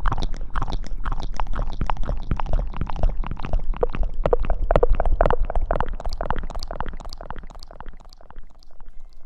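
Close-miked wet squishing and rustling of hair being washed, in quick irregular strokes with a heavy low rumble, thinning out and getting quieter near the end.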